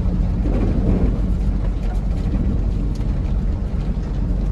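Diesel dump truck engine running steadily, a low drone with an even hum.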